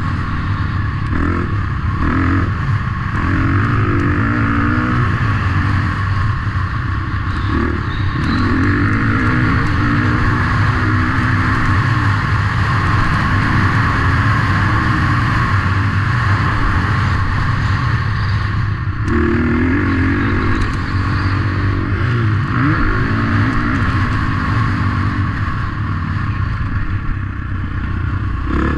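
Motocross bike engines running hard, their pitch repeatedly rising and falling as they rev and shift.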